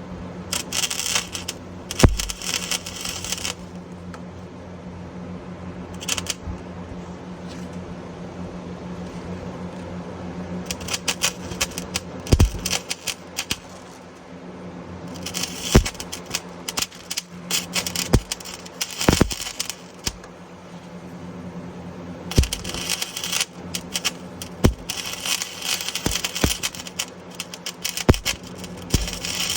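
Titanium wire-feed (MIG) welder arc crackling and sputtering as beads are laid on an exhaust pipe to fill gaps and seal leaks. The welding comes in several runs of a few seconds each, with short pauses and a few sharp pops, over a steady low hum.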